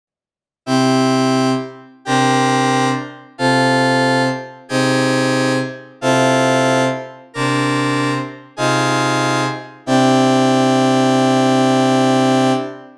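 A progression of eight sustained synthesizer chords, the first seven held just over a second each and the last held about three seconds. The chords are retuned away from standard 12-tone tuning so that they sound sweeter and more resonant.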